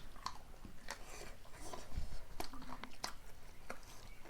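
Close-up eating sounds as a person bites and chews chicken: irregular wet mouth clicks and smacks.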